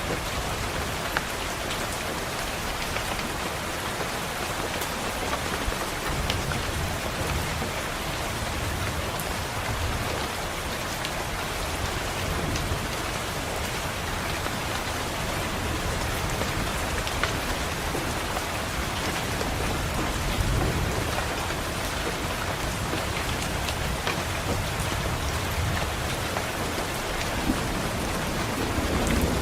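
Steady rain pattering on a window, with low rolls of distant thunder swelling up a few times, strongest near the end.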